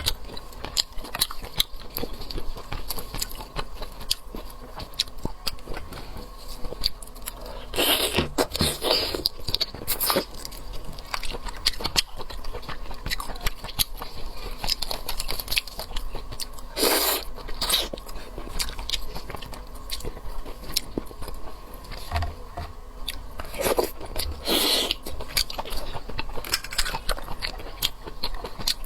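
Close-miked eating of seafood: biting and chewing with many small clicks, and four louder, longer bursts spread through.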